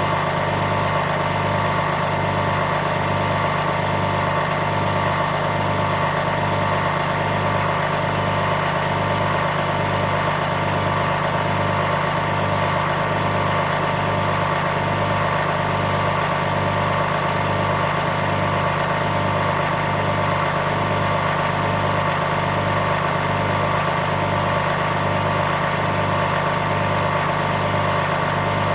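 A machine running steadily: a constant hum with several steady tones over a low throb that pulses regularly, about once a second.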